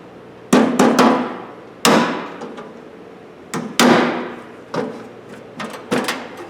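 Sharp metal clanks and knocks on a steel toolbox drawer being worked apart, about eight strikes in small clusters, each ringing out briefly.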